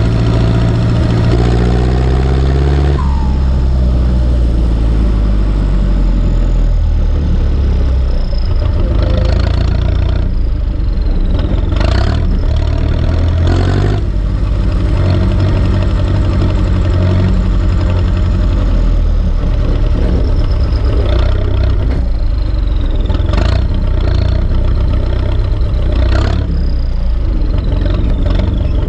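Turbocharged four-cylinder diesel engine of an Ursus C-360 tractor running steadily, its pitch dropping over the first few seconds and then holding. Several sharp knocks are heard around the middle and near the end.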